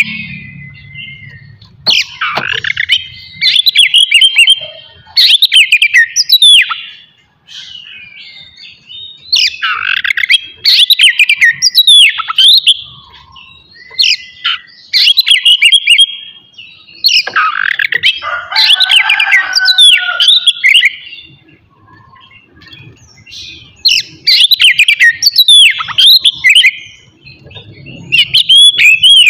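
Oriental magpie-robin (kacer) singing loudly in repeated bouts of rapid, varied whistles and sweeping notes. Each bout lasts a second to a few seconds, and short pauses fall between them.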